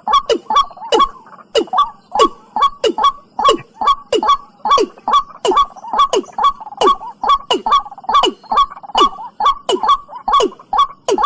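Watercock calling: a fast, steady run of short repeated notes, each dropping sharply in pitch, about two to three a second.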